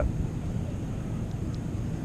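Steady low outdoor rumble with a couple of faint ticks about a second and a half in; the speaker apologises for the noise shortly afterwards.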